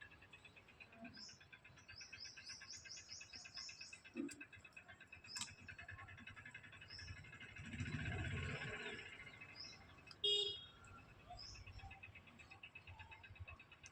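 Small birds chirping, with a quick run of repeated chirps about two to four seconds in. A brief muffled rumble comes about eight seconds in.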